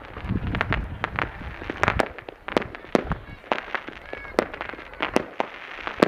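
Aerial fireworks going off in quick, irregular succession: many sharp bangs and crackles, with a deep rumble of booms in the first second.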